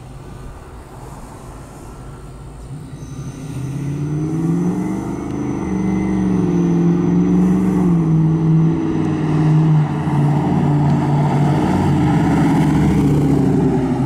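A 1971 Chevrolet Camaro RS driving up and past, its engine growing much louder from about three seconds in as it accelerates. The engine note rises, drops back around the middle, then holds steady and loud as the car goes by.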